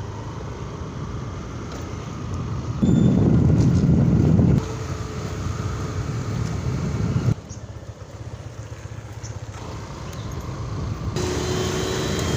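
Motor vehicle engine and road noise, a steady low rumble that jumps abruptly in level and character several times, loudest for a second and a half near the start.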